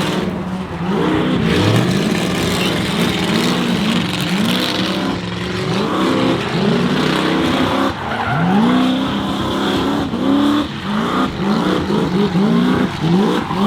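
Truck doing a burnout: the engine revs up and down again and again, each rev a rising climb in pitch, over the steady screech and hiss of rear tyres spinning against the pavement.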